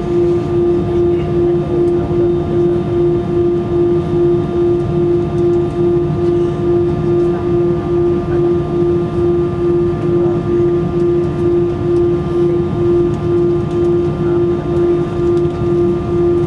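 Airbus A320-200 cabin drone in flight: a steady engine and airflow hum over a low rumble, with one strong tone that pulses about three times a second.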